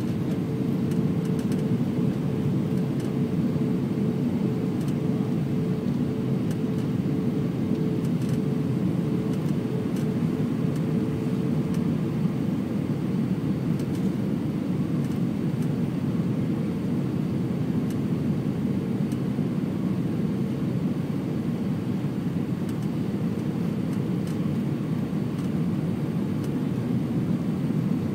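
Steady roar of engines and rushing air heard inside the cabin of an Airbus A320 airliner, with a faint steady hum that fades about twelve seconds in.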